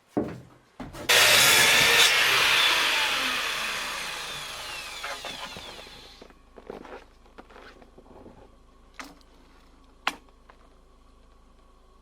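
A power saw cuts in suddenly and runs loud, then winds down over about five seconds, its pitch falling as the blade slows. Two sharp knocks of wood follow near the end.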